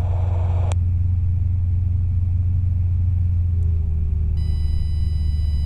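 Robinson R22 helicopter's engine and rotor running on the ground, a steady low drone, while the rotor revs are pulled down by raising the collective. A click comes just under a second in, and a little over four seconds in a steady high warning tone comes on, the low rotor RPM horn.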